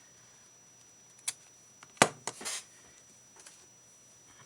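Small craft tools and supplies handled on a work table: a light click, then a sharp knock about two seconds in, followed by another click and a brief scuff.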